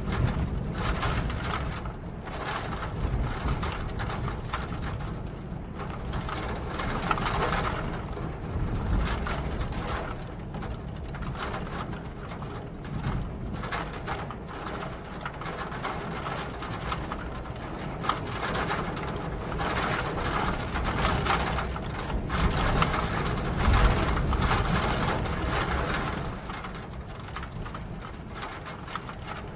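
Steady rain with dense pattering and dripping, over a low rumble that swells and eases.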